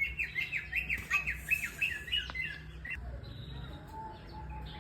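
A bird chirping in a quick series of short calls, about four a second, stopping about three seconds in.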